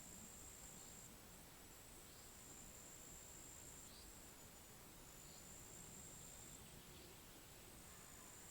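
Faint, high-pitched insect trilling, held for a second or more at a time with short breaks, over a soft low hiss of outdoor air. A faint short chirp recurs about every second or so beneath it.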